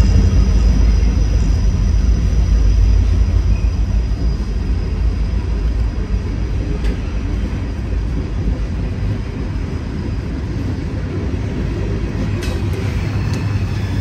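Freight train cars rolling past, their steel wheels on the rails giving a steady low rumble that eases a little about halfway through.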